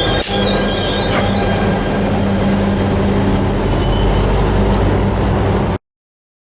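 A train running by with a steady rumble of wheels on rail and high-pitched wheel squeal. The sound cuts off suddenly near the end.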